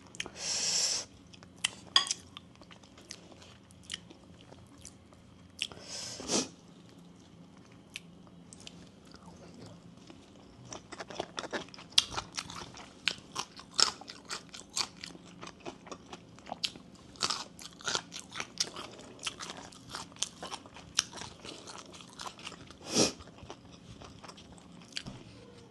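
Close-up chewing of bamboo shoot soup: crunching and clicking mouth sounds, busier through the second half, with a few louder brief noises near the start, about a quarter of the way in and near the end.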